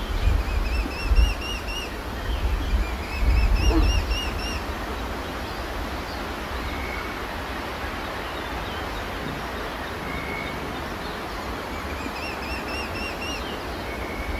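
Wild birds calling, quick runs of repeated chirping notes twice in the first four seconds and again near the end, with a few single short whistles between, over a steady hiss of background. A deep low rumble is loudest in the first four seconds, then fades.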